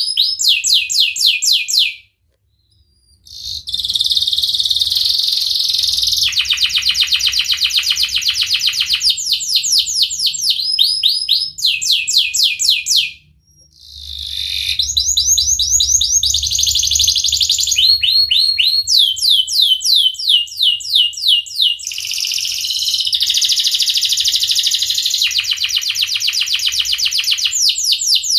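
Domestic canary singing a long, vigorous song of fast rolling trills, each phrase a rapid run of repeated chirps that changes pitch from phrase to phrase. The song breaks off briefly twice, about two seconds and thirteen seconds in.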